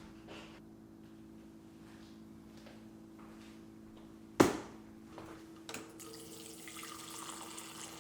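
A single sharp knock about halfway through, then a few light clicks, and water running from a tap in the last two seconds, over a steady low hum.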